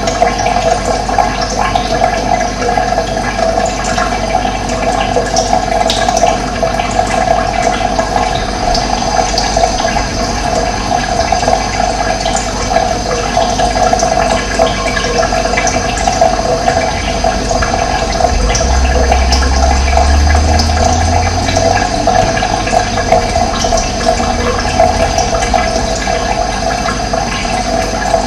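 Running water flowing steadily in a constant rushing, gurgling wash, with a low hum for several seconds past the middle.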